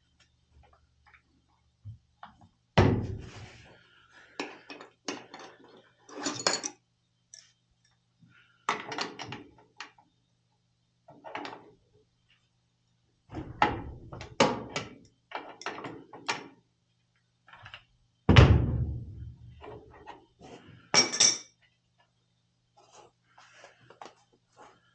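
Metal tools and burner parts being handled: scattered clanks and clinks, with two heavier knocks and a couple of short ringing metallic clinks.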